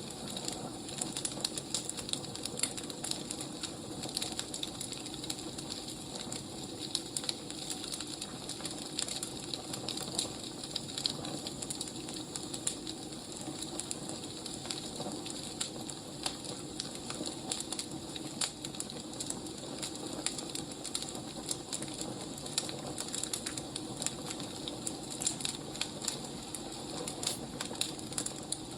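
Wood fire burning, with irregular sharp crackles and pops over a steady soft hiss.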